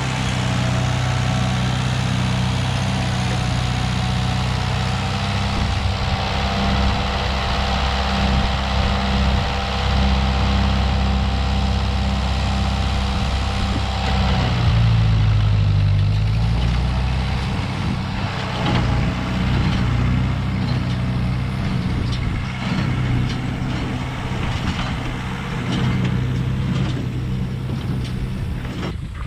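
Ford 8N tractor's four-cylinder gasoline engine running steadily, its pitch dipping briefly about halfway through and then picking back up.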